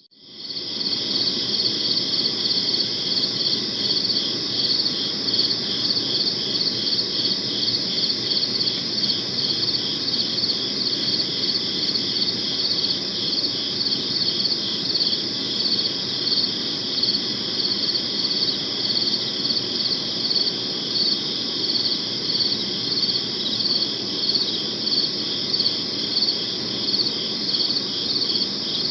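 Crickets chirping in a dense, continuous chorus of fast, even pulses, over a low steady background hiss. The sound fades in from a brief near-silent dip at the very start.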